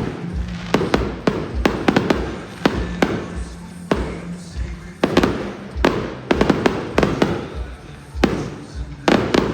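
Fireworks bursting in quick, uneven succession, sharp cracks and booms bunched together about five to seven seconds in and again near the end, over music played through a stadium sound system.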